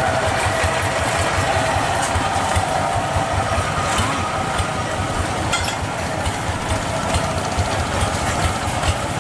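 Tractor engine running steadily with rapid low pulsing, mixed with mechanical rattling and clicking.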